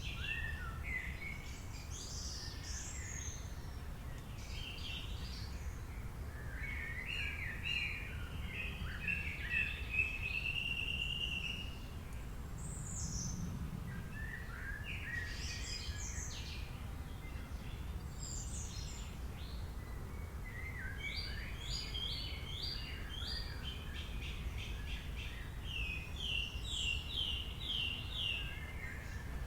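Several wild birds singing and calling, with overlapping chirps, whistles and trills, including quick runs of repeated notes near the middle and again near the end. A steady low rumble sits underneath throughout.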